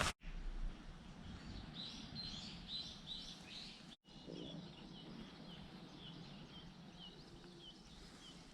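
Small birds chirping: a quick run of high rising chirps, then a steady series of short high calls about twice a second over faint outdoor background noise. The sound drops out briefly about four seconds in.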